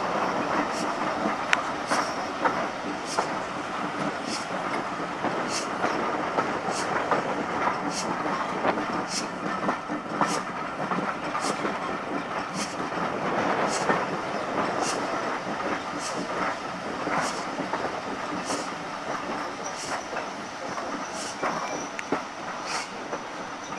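Heritage railway passenger carriage running along the line, heard from an open carriage window: a steady rumble of wheels and moving air, with sharp clicks at an even beat of a little more than one a second.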